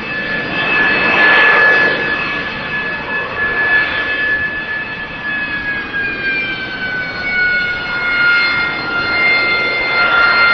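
AV-8B Harrier II jet engine (a Rolls-Royce Pegasus turbofan) running with a loud rushing roar and a high whine. The whine drops smoothly in pitch about halfway through, then holds steady.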